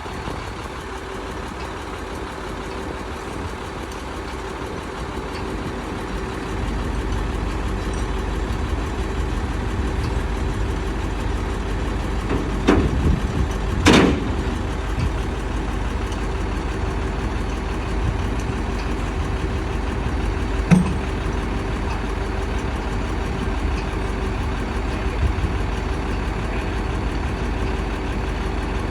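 Machine engine running steadily at a low, even idle, getting a little louder about six seconds in, with a few sharp metallic knocks, two close together around the middle and one later.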